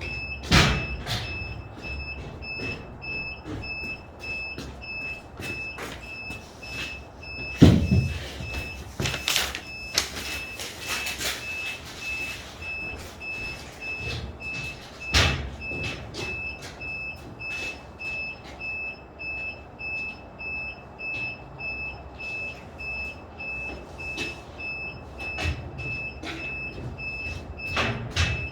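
Construction-site noise: a machine's electronic warning beeper repeats steadily several times a second throughout, over a low rumble. Irregular knocks and thuds of gypsum boards being handled and set down break in, the loudest about eight seconds in and others near 9, 15 and 28 seconds.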